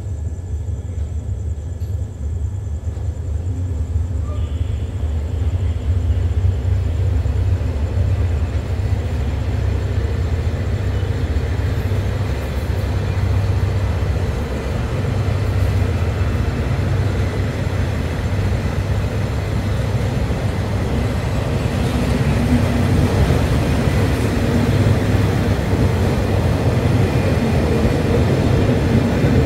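State Railway of Thailand passenger train pulling away from a platform, with a steady low rumble of the train and its wheels on the rails. It grows louder and rattlier in the second half as the train gathers speed.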